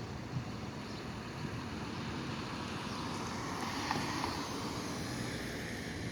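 Steady outdoor background rumble, with a swell of noise that builds and fades about four seconds in.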